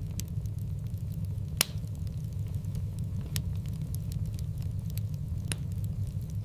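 Wood fire in a fireplace crackling over a steady low rumble, with scattered sharp pops, the loudest about a second and a half in and others near three and a half and five and a half seconds.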